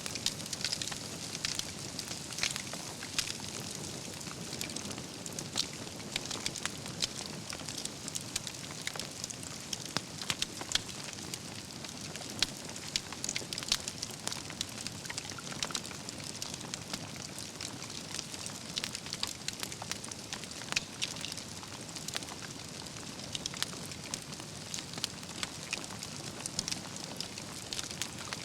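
Wood fire burning steadily with a low rush and frequent irregular crackles and pops.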